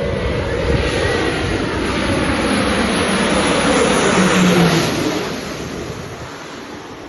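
Jet airliner passing low overhead on approach: the engine noise builds to its loudest about two-thirds of the way through, then falls away as the pitch drops.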